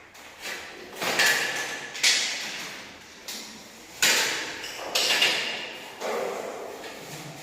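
A series of sharp knocks and scraping clatters, about one a second, each fading quickly.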